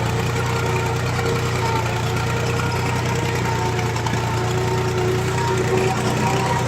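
HMT farm tractor's diesel engine running steadily at an even speed.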